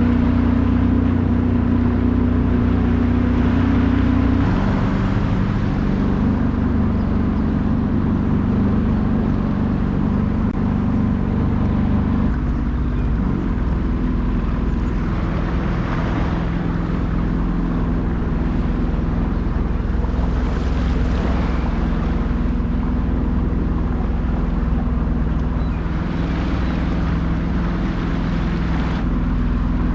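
Sea-Doo Spark Trixx jet ski's 90-horsepower Rotax three-cylinder engine running steadily under way, with rushing water and wind. The engine note drops a little about four seconds in and again about twelve seconds in.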